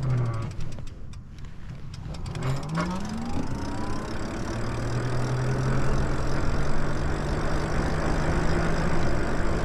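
Lyric Graffiti e-bike's electric motor whine dying away, then rising in pitch about two and a half seconds in as the bike speeds up. It then settles into a steady hum at cruising speed, under building wind and tyre noise.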